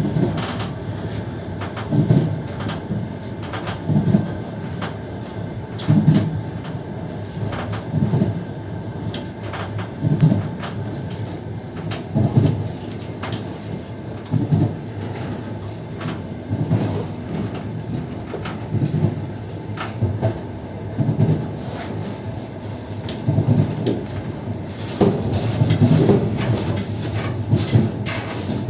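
Passenger train car running on the rails: a steady rumble with the wheels knocking over rail joints about every two seconds, growing louder near the end.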